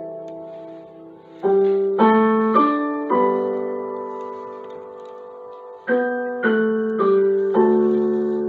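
Background piano music: a slow, soft passage of chords, each struck and left to ring and fade, with a few new chords in quick succession around the second and sixth seconds.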